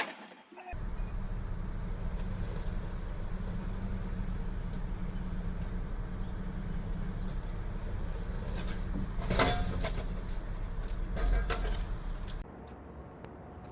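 Vehicle driving noise as picked up by a dash camera: a steady low rumble of engine and road. A sharp bang comes about nine and a half seconds in and another around eleven seconds, then the sound cuts abruptly to a quieter, thinner hum.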